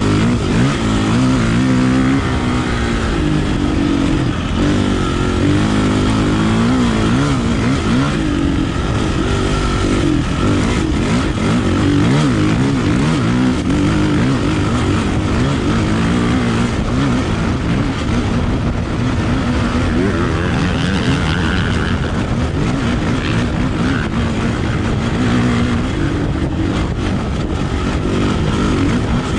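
Kawasaki KLX450R dirt bike's four-stroke single-cylinder engine being ridden, its pitch rising and falling over and over as the throttle is opened and closed.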